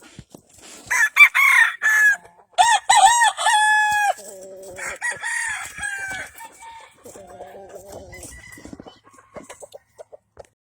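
Roosters crowing: a loud crow about a second in that ends in a long held note near four seconds, another crow around five seconds, then lower, quieter calls.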